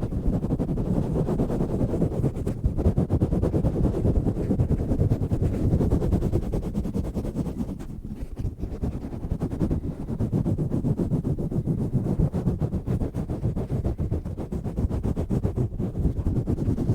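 A microphone cover being swirled and rubbed directly against the microphone, a continuous deep, rough rumble with fast fluctuations and a brief lull about halfway through.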